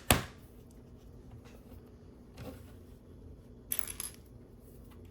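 Hard plastic LEGO pieces clicking and clattering as the model is handled and turned. There is one sharp click at the start, then a few fainter clicks later on.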